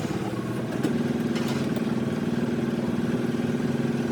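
A motor running steadily with an even, pulsing hum, a little louder from about a second in.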